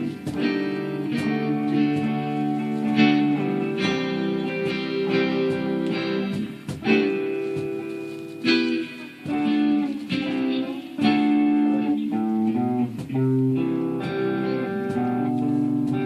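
Guitar played solo: strummed chords struck about once a second and left ringing, with a quick run of single notes a little after the middle.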